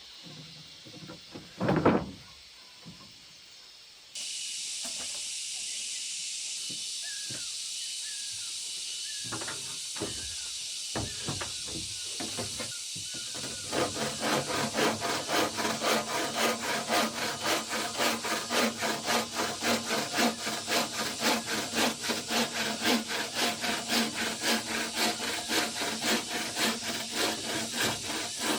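Hand saw cutting through wood, with even back-and-forth strokes about two a second from about halfway in, over a steady background hiss.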